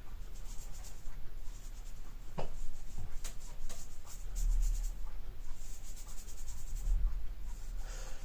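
Scratchy rubbing strokes of a hand tool on a hard painted surface, in quick runs of short strokes, loudest a few seconds in and again near the end, over a steady low hum.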